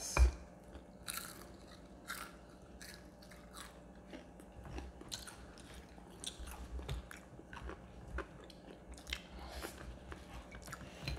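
Crunching bites and chewing of crispy Jollibee Chickenjoy fried chicken skin, a string of sharp crackles at uneven intervals, the loudest bite just at the start.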